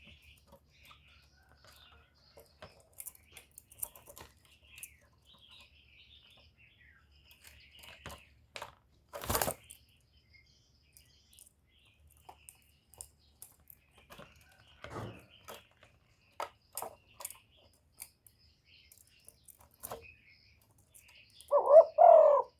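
Spotted dove cooing: two loud low coo notes near the end, after a long stretch of faint small-bird chirps and scattered clicks and crackles.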